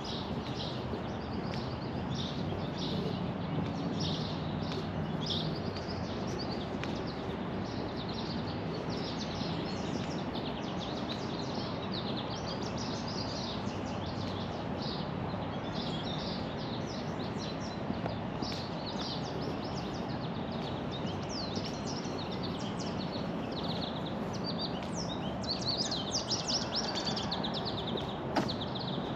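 Songbirds chirping and singing in the trees over a steady background of outdoor noise, the chirping busiest near the end, with one sharp tick just before the end.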